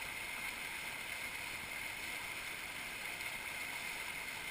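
Steady rush of water through river rapids.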